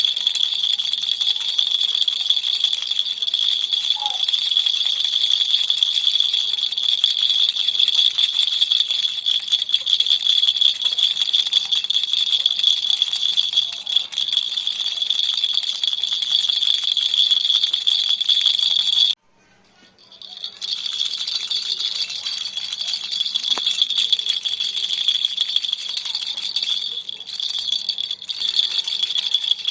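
Baby's toy rattle shaken steadily, a dense, continuous rattling. It stops for about a second just past the middle, then starts again.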